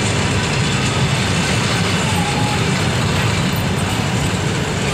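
Passenger coaches of an arriving train rolling along the platform: the wheels on the rails make a steady low rumble.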